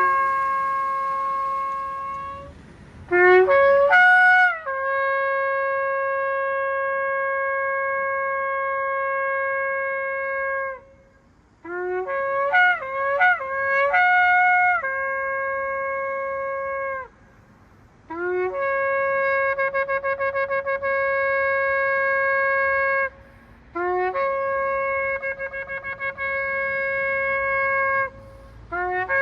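A shofar (ram's horn) sounding a series of blasts: long held notes, each starting with a short upward scoop in pitch, alternating with calls broken into several quick short notes. Some of the later held notes have a rapid flutter in them.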